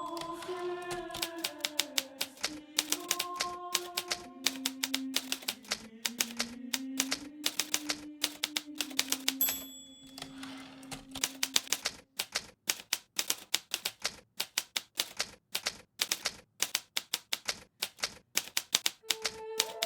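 Hermes Baby portable manual typewriter being typed on, keys striking in quick, uneven runs of several clicks a second. Soft, slow background music plays under the typing, drops out about two-thirds of the way in, and comes back near the end.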